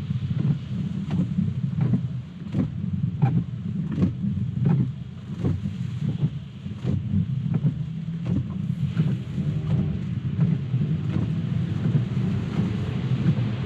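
Cabin noise of a Tesla electric car driving on a wet road in the rain: a steady low road-and-tyre rumble with a hiss of spray and rain. A short sound repeats about every 0.7 seconds.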